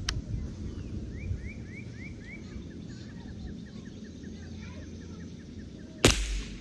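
A single shot from a J.C. Higgins single-shot .22 Long Rifle rifle firing a subsonic match round: one short, sharp report about six seconds in, the loudest sound here. Before the shot a bird sings in the background, a quick run of rising chirps followed by a string of short notes, and there is a faint click at the very start.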